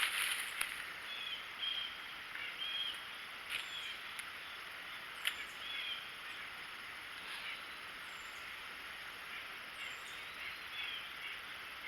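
Wild birds calling: many short, repeated chirps at different pitches over a steady background hiss.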